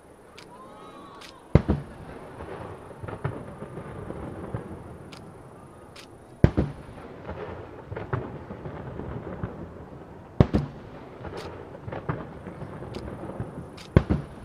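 Peacock fireworks, half-dome shells bursting on a lake surface: four sharp booms about four seconds apart, each trailing off in a rumble, with smaller crackling pops between them.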